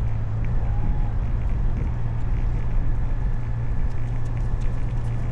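Motorcycle engine running at a steady speed while riding, a constant low hum under rumble and wind noise.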